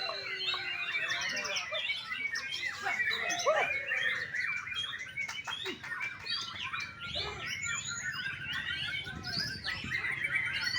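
Many birds chirping at once: a dense, overlapping chorus of short high chirps and twitters.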